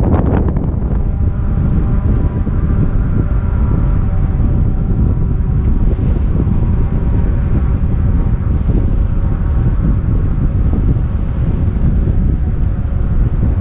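Wind buffeting a helmet-mounted GoPro's microphone while riding a bicycle: a loud, steady rumble, with a faint steady drone underneath. There is a brief crackle at the very start.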